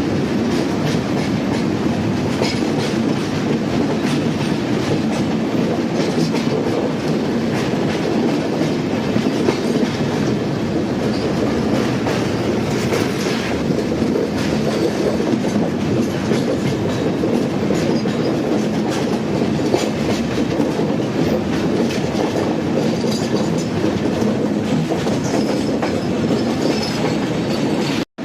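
A moving passenger train running along the track: a steady rumble with the clatter of wheels over rail joints. A faint high squeal comes in near the end.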